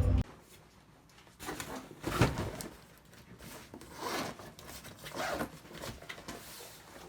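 Background music cuts off, then a series of short rustling and scraping handling noises, the loudest about two seconds in.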